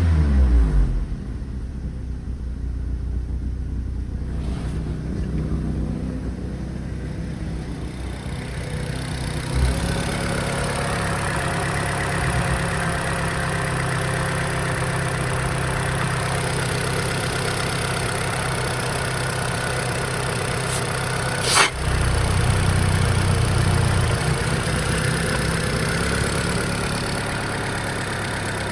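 Opel Vectra C's 2.2-litre Z22YH four-cylinder petrol engine settling from a rev back down to a steady idle. A sharp click comes about two-thirds of the way through, after which the engine runs a little louder for a few seconds.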